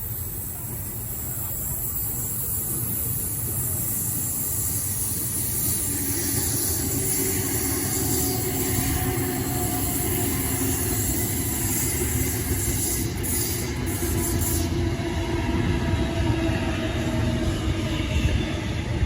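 Sydney Trains B-set (Waratah) electric passenger train pulling into the platform. Its running noise grows louder over the first few seconds, then holds steady.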